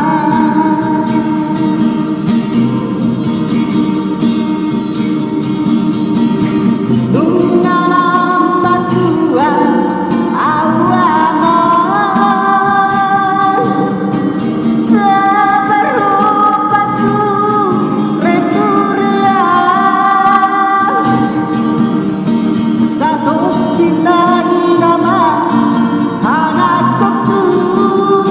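A man singing a Batak song solo over guitar accompaniment. He holds long notes and slides between them.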